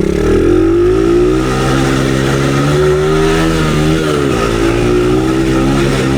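Dirt bike engine under throttle while being ridden: the pitch climbs over the first second as it accelerates, holds steady, then drops briefly and picks up again around four seconds in.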